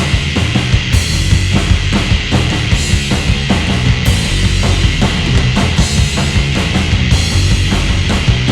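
Live rock band playing an instrumental passage: distorted electric guitar, bass and a full drum kit with steady kick and snare hits.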